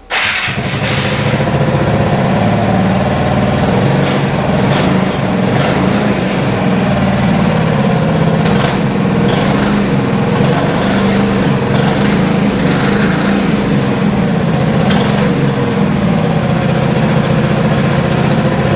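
Piaggio MP3 Yourban LT 300 scooter's single-cylinder engine catching at once on the electric starter, then idling steadily.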